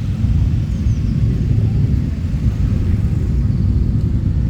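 Low, steady rumble of motorcycle engines running.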